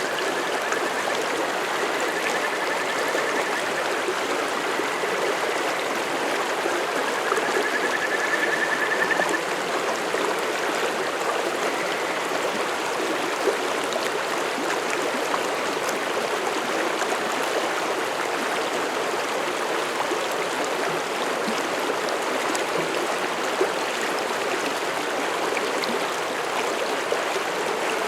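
Mountain stream rushing and splashing over rocks in a steady, even flow. A thin, high trill sits over the water for the first nine seconds or so.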